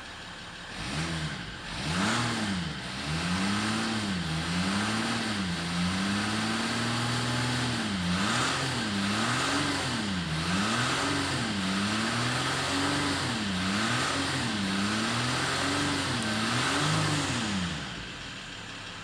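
2012 Jeep Grand Cherokee's 3.0 L V6 turbo diesel engine revved up and down over and over from idle, held up once for a couple of seconds, then dropping back to idle near the end.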